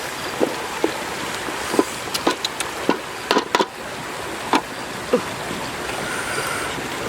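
Cooking over a fire: a steady hiss with irregular sharp clicks and knocks, about one or two a second.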